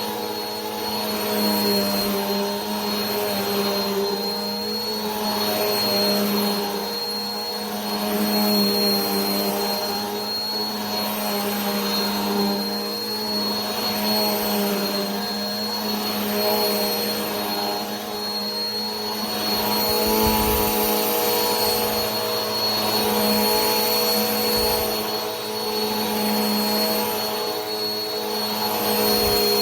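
Vacuum cleaner running steadily: a motor hum and a high whine over the rush of air, the level swelling and easing gently every two seconds or so.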